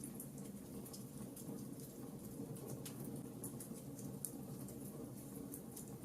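Wood fire burning, crackling with irregular sharp pops over a low steady rush of flame.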